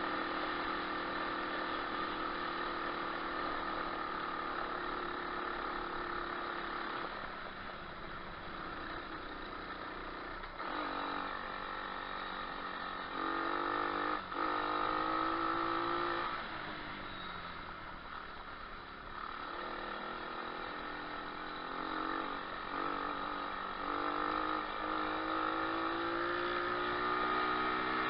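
Single-cylinder 125cc pit bike engine running under way, its revs rising and falling with the throttle. It runs steadily at first, drops back twice in the middle, and climbs in pitch again toward the end.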